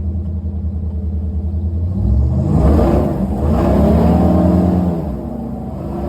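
A vehicle engine running, revved up about two seconds in, easing off for a moment, then held higher before settling back to a steady run near the end.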